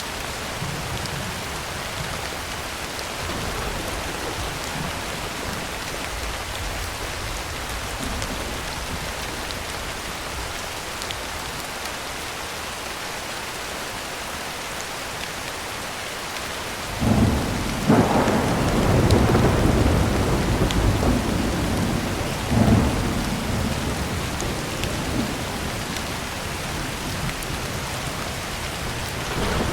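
Heavy rain falling steadily on a tin roof. A little past halfway, thunder breaks in suddenly and rumbles for several seconds, with a second loud crack near the end of the rumble, then fades back under the rain.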